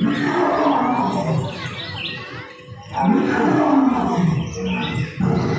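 Recorded animal roars played through the speakers of animatronic exhibit animals, in repeated low calls that rise and fall.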